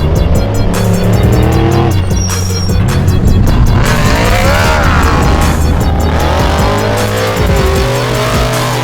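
Off-road race trucks' engines revving up and down over loud background music with a steady beat.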